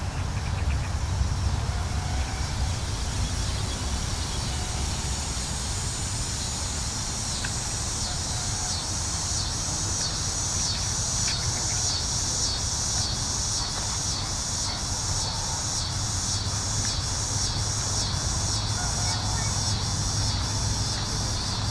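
Outdoor insect chorus: a high, even pulsing of about one and a half pulses a second that grows stronger about eight seconds in, over a steady low rumble.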